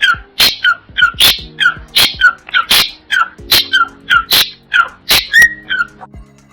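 A small dog yapping in quick, high-pitched, squeaky yips, a bit over two a second, that stop shortly before the end, over background music.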